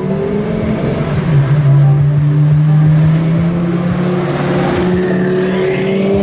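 A car engine running with a steady hum. Its pitch drops about a second in, holds, then rises slowly toward the end.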